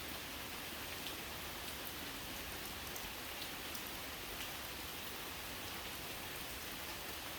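Steady rain falling: an even hiss with scattered single drops ticking.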